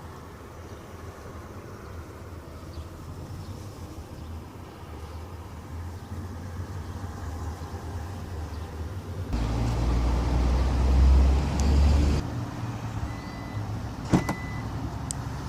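A vehicle engine running steadily with a low hum. It gets suddenly louder about nine seconds in, for about three seconds, then drops back. A sharp click comes near the end.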